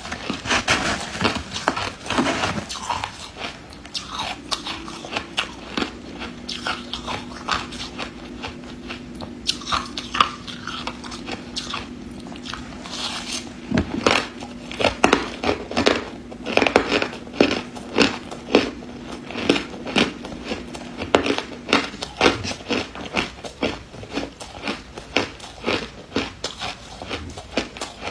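Ice being bitten and chewed close to the microphone: a string of sharp crunches that come faster in the second half.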